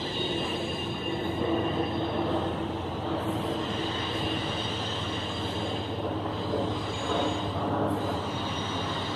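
A train rolling on the rails: a steady rumble with several high wheel-squeal tones held over it, and a few faint clicks.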